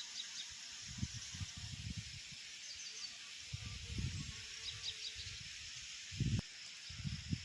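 Small birds chirping in short quick clusters, three times, over a steady hiss of babbling water, with low rumbles coming and going underneath.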